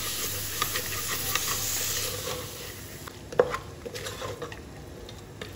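Raw chicken pieces sizzling in hot oily masala as a wooden spatula stirs and scrapes them around a pressure cooker pot. The sizzle fades over the first few seconds, leaving quieter scraping and a few sharp knocks.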